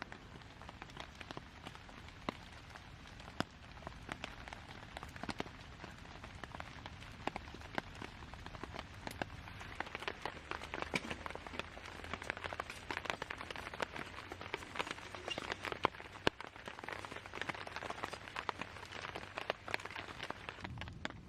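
Rain pattering: a steady hiss dotted with many irregular sharp drop ticks, which grow denser and a little louder about halfway through.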